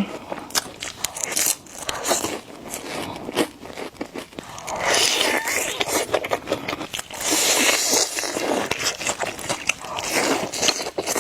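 Close-miked eating of spicy instant noodles: chewing with many small clicks and crunches, and two longer slurping stretches, one midway and one a little later.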